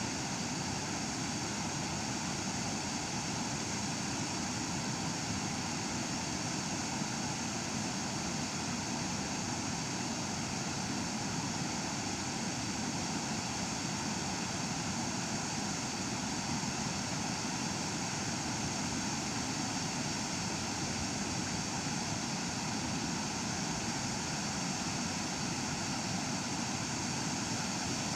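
Waterfall pouring steadily: a constant rushing roar of falling water with no change throughout.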